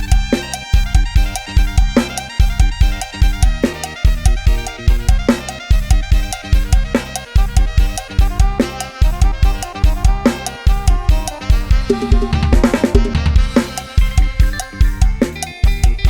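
Fast Thai lam sing-style instrumental music on a programmed Addictive Drums 2 drum kit: a steady driving bass-drum and snare beat under a held melodic line, with a quick drum fill about twelve seconds in.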